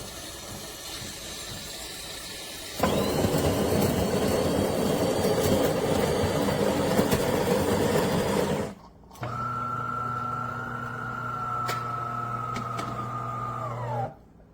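De'Longhi Eletta Explore automatic espresso machine working through a cycle. About three seconds in, a loud rough grinding starts and runs for several seconds. After a short break comes a steady humming buzz with a whine above it, and the whine drops in pitch as the machine stops near the end.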